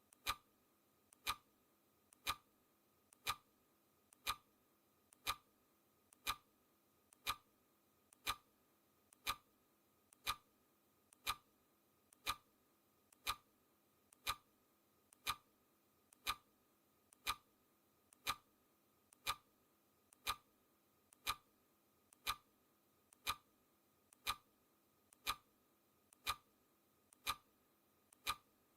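Countdown timer's clock-ticking sound effect, one sharp tick per second, steady and even. Each tick is preceded by a faint softer click.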